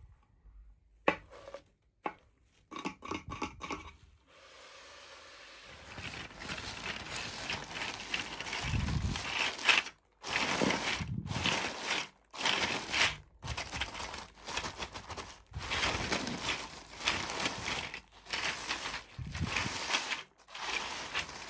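Packaging being handled and torn open: a few sharp taps at first, then rustling that builds into repeated short bursts of crinkling and tearing.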